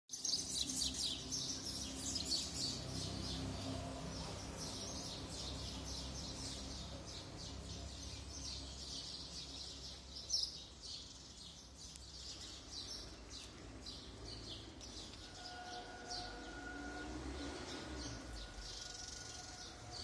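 Birds chirping, many short, quick high chirps one after another over a low steady rumble. A single sharp click comes about ten seconds in, and a faint steady hum joins about fifteen seconds in.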